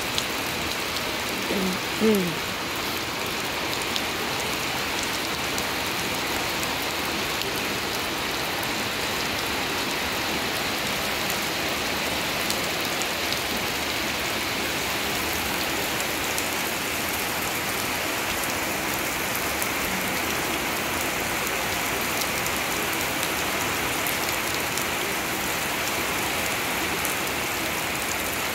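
Steady rain falling on a shallow puddle and wet grass. About two seconds in, a short call slides downward over the rain.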